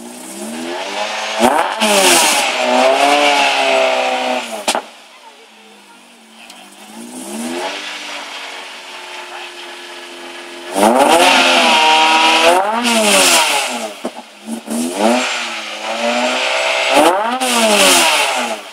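Lotus Exige S1 race car's engine idling and being revved hard several times. There is one rev about a second and a half in, a smaller one midway, and three strong revs close together in the second half. Each rises and falls in pitch and drops back to a steady idle.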